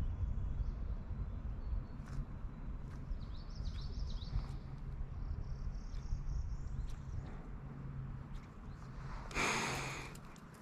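Small birds chirping faintly in short twittering phrases over a low steady rumble, with a few faint clicks. A short rush of noise stands out near the end.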